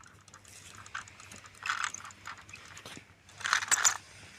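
Toy tractor moving over the ground with brief scraping, rattling bursts twice and a few light clicks.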